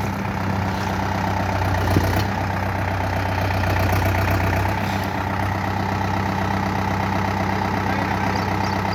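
Tractor's diesel engine running steadily, with one sharp knock about two seconds in.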